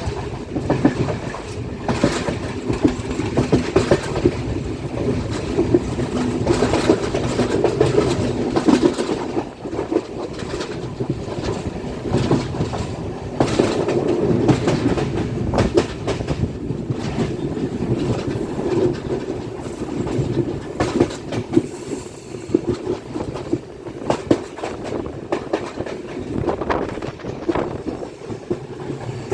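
Passenger train running along the track: a steady rumble of the wheels on the rails, with frequent irregular clicks and knocks from the rail joints.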